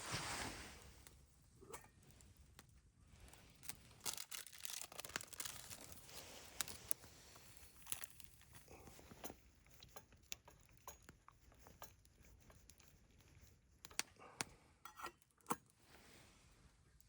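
Quiet handling of food packaging and cookware: crinkling and tearing with scattered small clicks and knocks.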